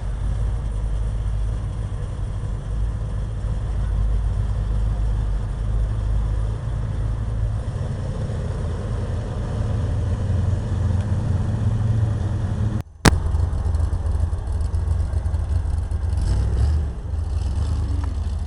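Steady low outdoor rumble. About 13 seconds in it cuts out for a moment, a sharp click follows, and the rumble carries on, the mark of an edit splice.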